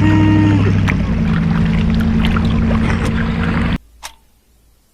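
A boat engine running at a steady low hum, which shifts slightly about a second in and then cuts off abruptly near the end, followed by two brief clicks.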